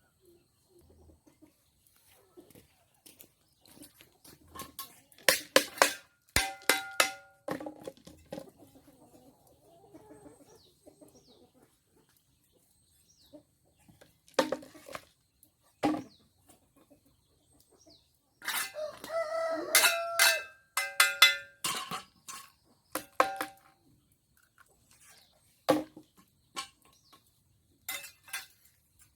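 Chickens clucking and squawking in short, scattered calls, with a rooster crowing once, about a second and a half long, roughly two-thirds of the way through.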